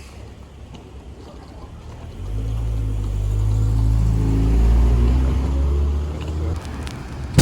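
A motor vehicle's engine comes up loud about two seconds in, rising slightly in pitch as it passes, then fades near the end.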